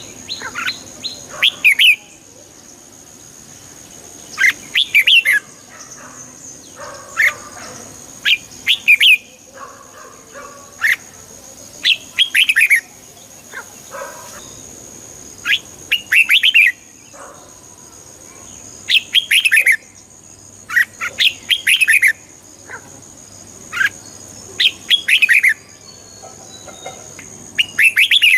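Red-whiskered bulbul singing: short whistled phrases of quick gliding notes, about a dozen of them, repeated every two to three seconds, over a steady high-pitched whine.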